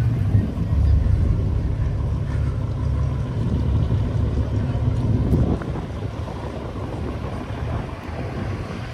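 A car engine running with a steady low rumble, which drops off noticeably a little past halfway through.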